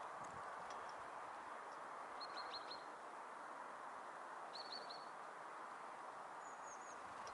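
Small songbirds giving short chirping calls: two quick runs of about four high notes a couple of seconds apart, and a fainter, higher run near the end, over a steady background hiss.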